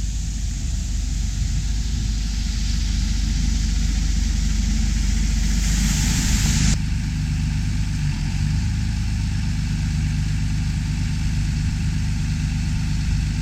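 Harvest machinery running steadily: an engine drone under a loud rushing noise that cuts off abruptly about seven seconds in, leaving a steady engine hum.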